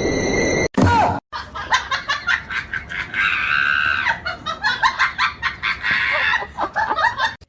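A person laughing hard in rapid bursts, breaking into a high shriek of laughter about three seconds in. It starts after a sudden cut about a second in.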